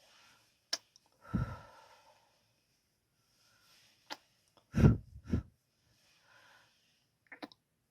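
Close-miked ASMR kissing sounds: a few sharp lip smacks and several breathy kisses whose puffs of air thump against the microphone, spaced a second or more apart.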